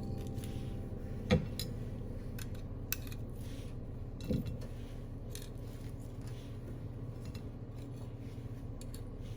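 Cooking utensils and cookware clinking and scraping, with scattered small clicks and two louder knocks, one about a second in and one about four seconds in.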